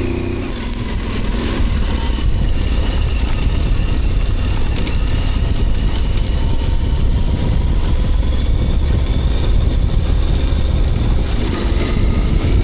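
Dual-sport motorcycle riding along: a steady engine drone under heavy wind and road rumble on the microphone, the engine note climbing gradually through the middle.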